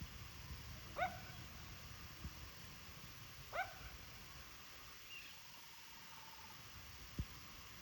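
Two short, rising yelp-like animal calls about two and a half seconds apart, faint, followed later by a brief high whistle and a single click near the end.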